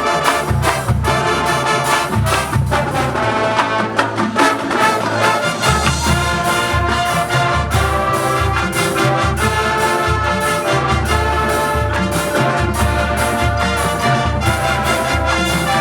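High school marching band playing: a full brass section of trumpets and trombones holding loud chords over deep bass notes, with percussion hits keeping a steady beat.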